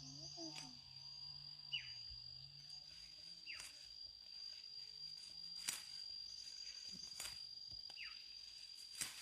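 An insect calling in one steady, unbroken high-pitched tone. Short falling chirps come every couple of seconds, with a few sharp clicks.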